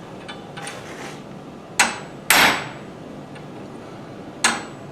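Hand hammer striking a chisel into stainless steel, cutting detail into a forged figure: a light setting tap followed half a second later by a heavy blow with a short metallic ring, then another light tap near the end.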